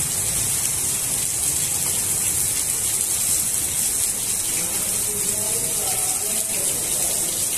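Heavy rain falling on a waterlogged paved street: a steady, even hiss.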